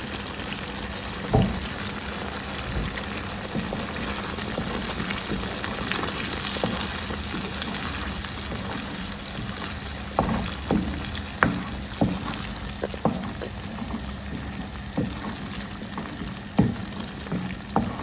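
Stew base of tomato sauce, onions and pepper sizzling steadily in hot oil in a pot, with a spoon knocking against the pot as it is stirred: once near the start and repeatedly in the second half.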